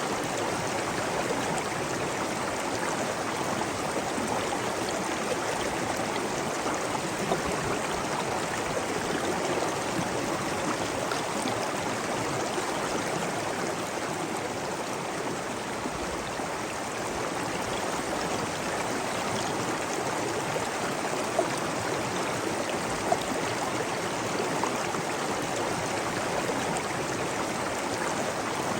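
Flowing water rushing steadily, with two brief louder splashes about two-thirds of the way through.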